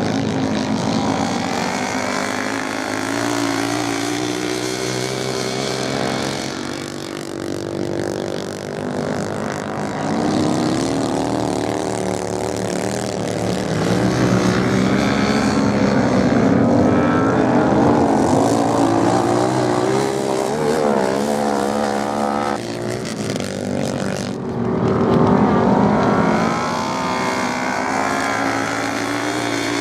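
Several motorcycle engines racing together, their pitch rising and falling as the riders rev and change gear. The engines get louder in the middle stretch and again about 25 seconds in.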